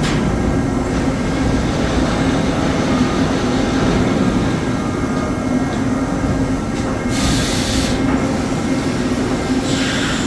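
Salvagnini P4-2516 CNC panel bender running with a steady mechanical hum, with a short burst of hiss about seven seconds in and another near the end.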